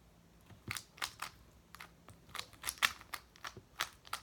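A plastic speed cube being turned fast during a solve: quick, irregular clicks and clacks of the layers snapping round, several a second, starting about half a second in.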